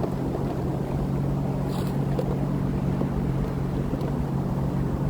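Sea-Doo Fish Pro personal watercraft's engine running steadily as a low drone, with wind and water noise over it.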